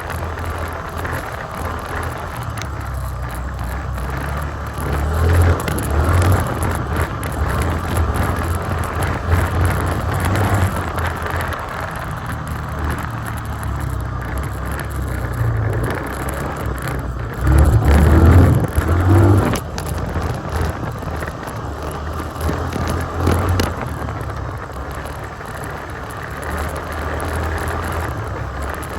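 Yamaha Grizzly 350 ATV's single-cylinder four-stroke engine running as the quad is ridden. It rises louder about five seconds in and again for a couple of seconds past the middle.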